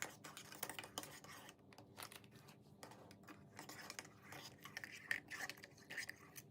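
A teaspoon stirring coffee grounds and water in a steel coffee pot: faint, irregular scraping and light clinks of the spoon against the metal.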